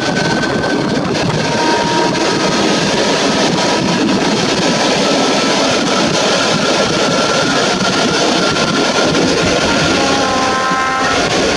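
Running noise of a passenger train heard from an open carriage window as it pulls out over the station tracks: a loud, steady rumble and clatter from wheels and locomotive, with thin high squeals above it.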